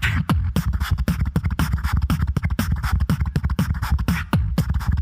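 Solo beatboxer performing a fast beat of vocal percussion: dense snare- and hi-hat-like clicks over deep bass kicks that slide down in pitch.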